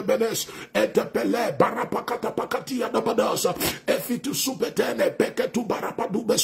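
A man praying aloud in tongues: a rapid, unbroken stream of syllables full of hard consonant clicks and pops.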